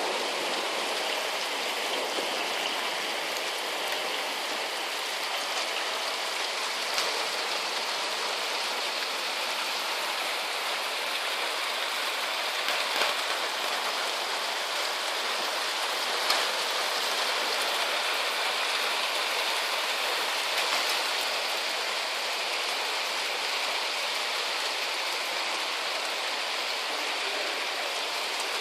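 Heavy rain falling and splashing on hard surfaces, a steady hiss with a few faint sharper drop hits.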